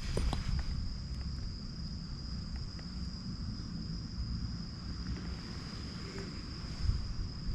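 Insects trilling steadily in one continuous high-pitched tone, over a low rumble, with a few sharp clicks near the start.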